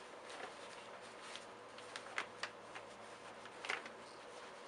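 Faint handling noise from taking the bag off a 1962 Hoover Senior upright vacuum cleaner: light rustling with a few sharp clicks about two seconds in and a small cluster near the end.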